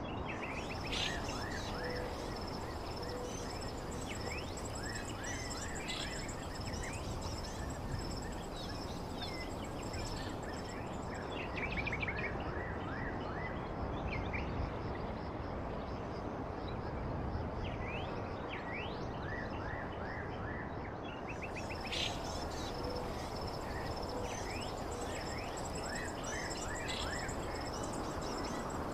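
Outdoor background: small birds chirping off and on over a steady hiss, with a thin, steady high whine running underneath.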